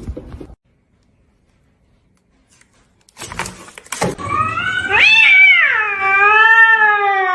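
A cat giving one long, drawn-out yowl about four seconds in. Its pitch rises, then slowly falls.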